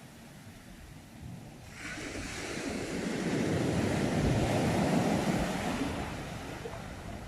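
Sea waves on the shore. It is quieter at first, then about two seconds in a wave breaks and washes in. It swells to its loudest around the middle and ebbs away near the end.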